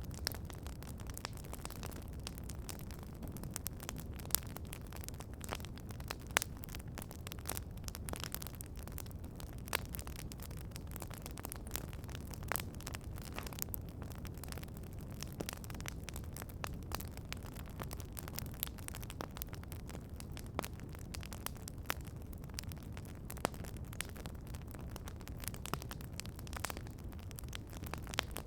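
Campfire crackling: irregular sharp pops and snaps, several a second at times, over a steady low rumble.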